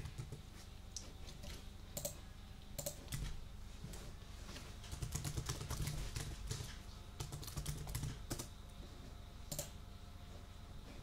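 Typing on a computer keyboard: irregular keystroke clicks, coming in quick runs with short pauses between.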